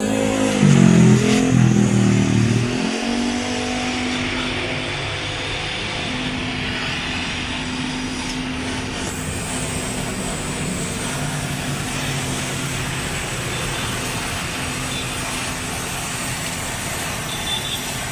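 Honda Brio's engine running through an aftermarket full-system exhaust: a brief rev whose pitch swings down and back up in the first few seconds, then a steady idle.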